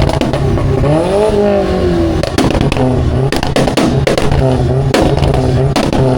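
Car engine revving, climbing in pitch and falling back about a second in, then a run of sharp pops.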